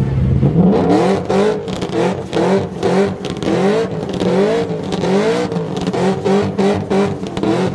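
Car engine revved repeatedly in quick blips, each a short rising-then-falling sweep in pitch, about one and a half a second, after settling from idle about half a second in.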